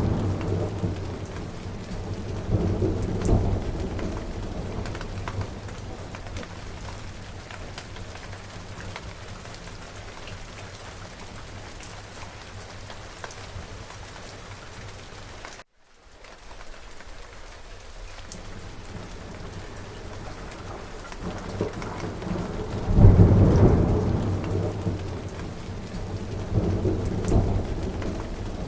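Steady rain falling with rolling thunder: a rumble dying away at the start, another about three seconds in, and two heavy rumbles near the end. The sound cuts out for a split second about halfway, where the recording is spliced.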